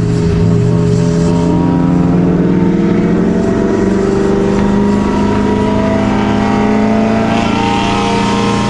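High-performance car engine at full throttle under sustained acceleration, one long pull with its pitch climbing slowly.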